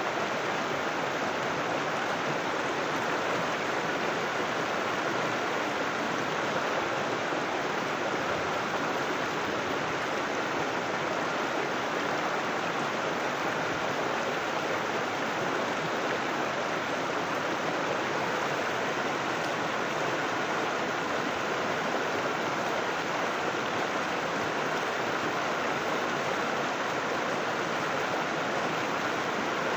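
River water flowing over rocks, a steady rushing with no breaks or changes.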